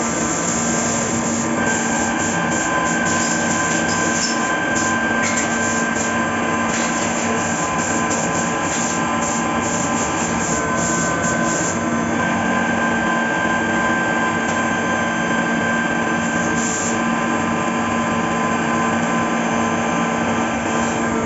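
Fagima Jazz M 5-axis CNC milling machine running a cut: a steady spindle whine of several held tones over a hiss, with irregular short ticks through roughly the first twelve seconds.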